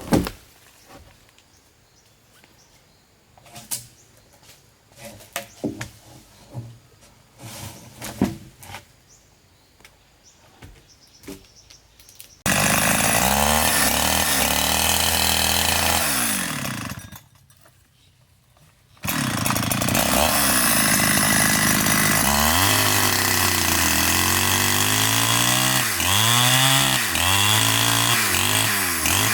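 Chainsaw cutting a big tree. After a stretch of scattered light knocks and handling sounds, the saw suddenly comes in loud, drops out for a couple of seconds, then runs again with its engine pitch repeatedly rising and falling as it bites into the wood.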